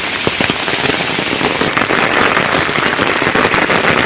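Rain falling close by, its drops a dense crackling patter that grows a little louder about two seconds in.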